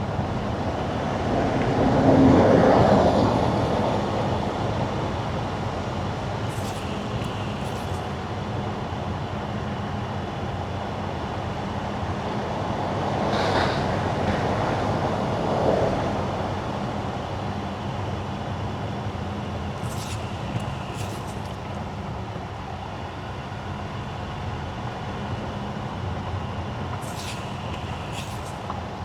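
Car tyres running on wet winter asphalt, a steady road noise that swells about two seconds in and again around the middle. Short high squeaks come roughly every seven seconds.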